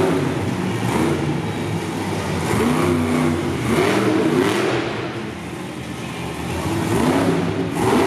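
Monster truck engine revving hard again and again, its pitch climbing and falling with each blip of the throttle, easing off briefly past the middle before picking up again.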